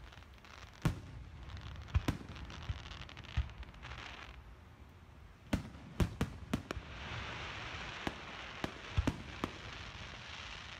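Aerial fireworks going off: a string of sharp bangs, about a dozen, bunched in three clusters. Between the bangs there is a crackling hiss from the burning shells and climbing rockets, strongest in the second half.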